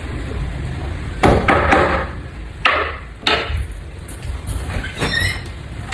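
Four hard knocks, unevenly spaced, each with a short rattle after it, over a low steady hum.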